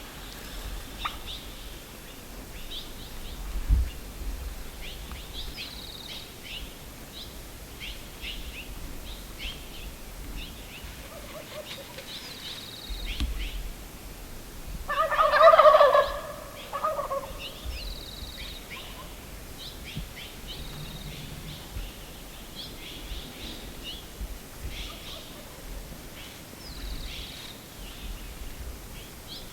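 Gould's wild turkey gobbler gobbling once, loud and rattling, about halfway through, with short high bird calls scattered throughout.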